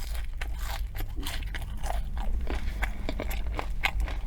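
Close-miked chewing of a McRib sandwich: soft wet crunching and smacking, with irregular small crackles from the pickles and onions.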